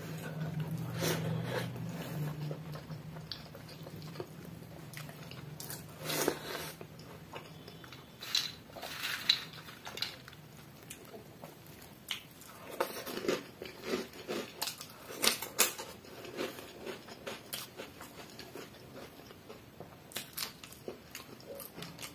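Close-miked eating: a person chewing mouthfuls of water-soaked rice with crunchy fried chips, sharp crunches and wet chewing clicks scattered throughout. A low hum fades out over the first several seconds.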